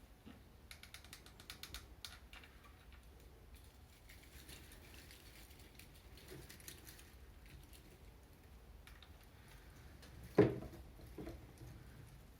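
Artificial pine garland and its decorations being handled: a quick run of fine crackling clicks in the first two seconds, faint rustling after that, and a single knock about ten seconds in.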